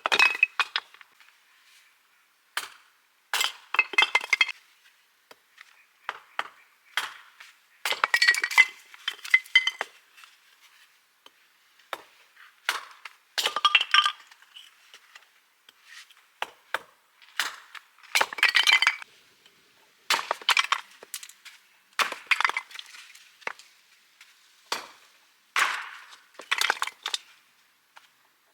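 Hard objects clinking and knocking together in irregular clusters a second or two apart, each knock ringing briefly.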